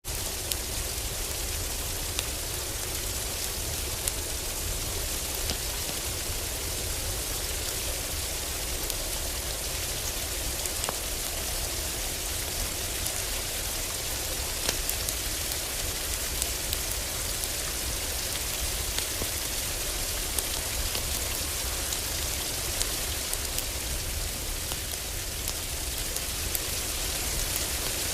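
Heavy rain drumming steadily on a cabin roof, with a constant low rumble underneath and scattered sharp crackles and pops from a wood fire.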